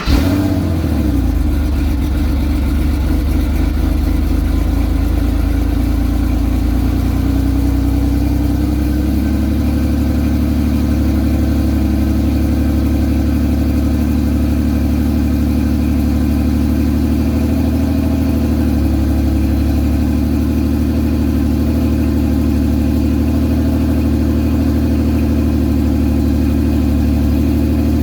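1983 Porsche 911 SC's air-cooled 3.0-litre flat-six idling steadily on a cold start, just after catching. The idle note shifts slightly about nine seconds in, then holds even.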